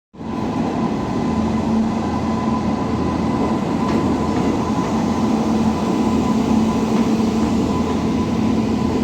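Express passenger train running, a steady loud rumble of the train with a constant hum through it and a few faint clicks.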